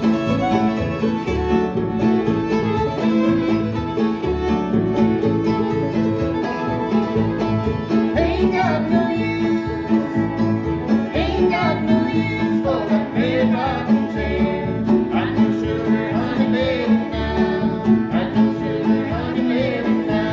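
A live string band playing bluegrass-style music: a fiddle over guitar and banjo, with a steady beat. A sliding, ornamented melody line comes forward after about eight seconds.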